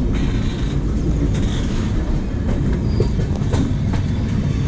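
Passenger express train running on the track, heard at the open door of a coach: a steady wheel-and-rail rumble with a few sharp clicks as the wheels pass over rail joints.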